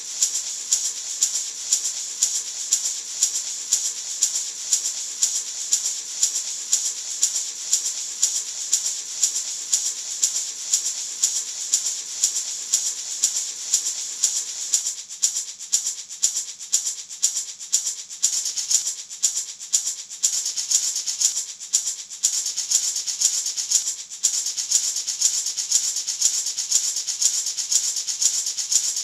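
Gourd maraca shaken steadily in an even rhythm of about two to three strokes a second, its seeds giving a bright, hissing rattle. It grows a little softer for a stretch in the middle before picking up again.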